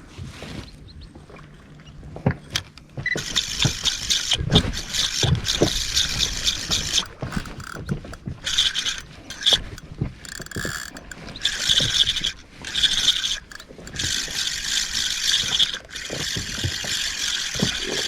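Fishing reel whirring in repeated spurts of a second or two with short breaks, starting about three seconds in.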